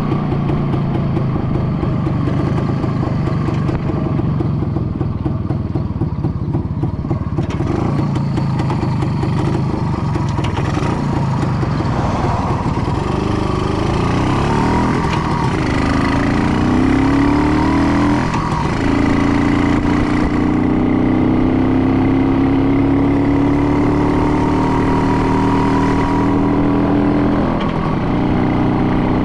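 An engine running continuously, its pitch rising and falling as the revs change midway, then holding a steady, slowly climbing note for several seconds.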